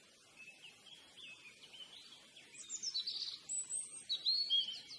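A songbird singing: quick whistled phrases and trills with rising and falling notes, louder in the second half, over a faint steady outdoor hiss.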